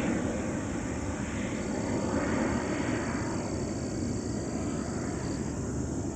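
Airplane engine noise from an aircraft that has just taken off, a steady rushing roar slowly fading as it flies away, with slow swelling and sweeping in its higher tones.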